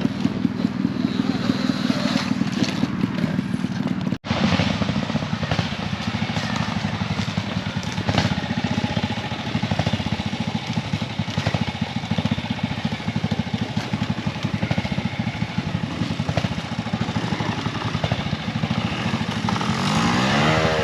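OSET TXP 24 electric trials bike being ridden over rough ground, with continuous tyre and chassis noise. The electric motor's whine rises and falls near the end. The sound drops out for an instant about four seconds in.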